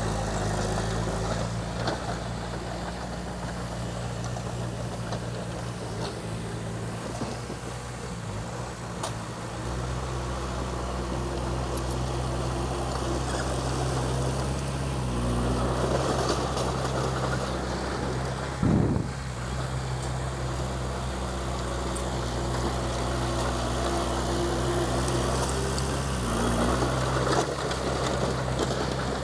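Komatsu D20P bulldozer's diesel engine running steadily, its pitch stepping up or down several times as the load and throttle change while it pushes soil. One short, loud knock about two-thirds of the way through.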